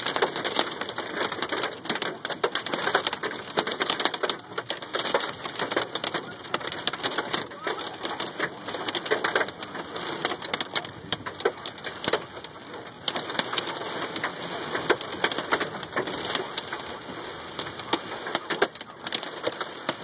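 Hailstones pelting a car, a dense, continuous clatter of countless hard impacts on the roof and body, heard from inside the car, mixed with heavy rain.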